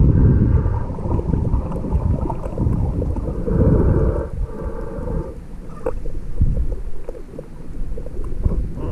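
Muffled low rumbling and sloshing of water moving around a camera held underwater while snorkelling, swelling and easing, with a few sharp clicks in the second half.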